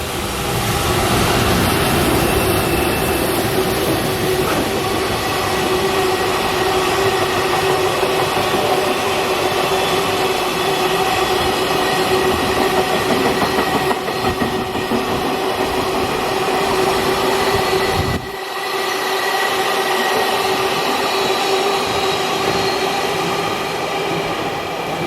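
Freight train rolling through a station at speed: a long, continuous rumble of wagons and wheels on rail, with several steady high tones of wheel squeal held over it. The low rumble drops off abruptly about 18 seconds in while the rolling and squealing go on.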